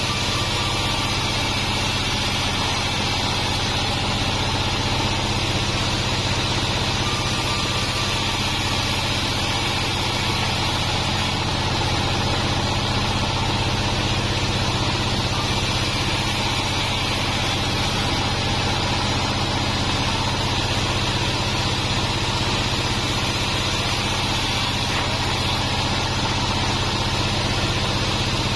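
Sawmill bandsaw machine running steadily, a constant low machine hum with a hiss above it.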